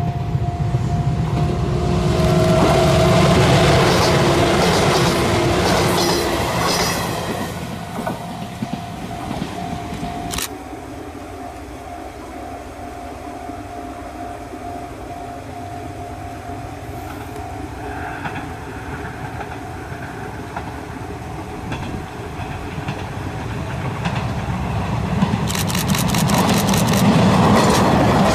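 Izuhakone Railway electric trains passing. The first runs by with loud running noise and a steady hum, fading after about seven seconds. Near the end a second train comes up close and passes, its wheels clacking over rail joints in a quick series of sharp clicks.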